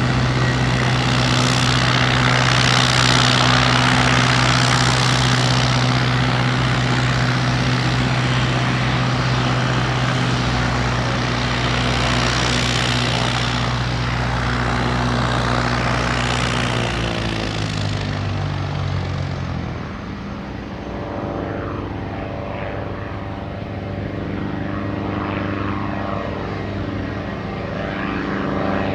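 Airplane engines running loud and steady with a low hum and a hiss over it. About two-thirds of the way through the pitch steps down, and the tones then sweep up and down as the aircraft moves.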